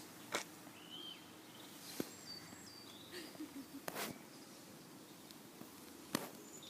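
Outdoor background hiss with a few short bird chirps, and four sharp clicks spread through it about two seconds apart.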